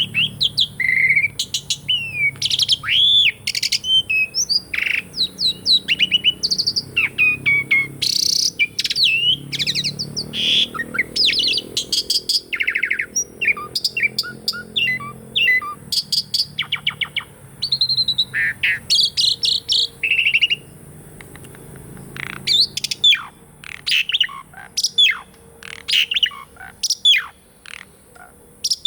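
Asian pied starling (jalak suren) singing a long, varied song of whistled notes, slurred chatter and sharp clicks, with a brief lull a little past the middle.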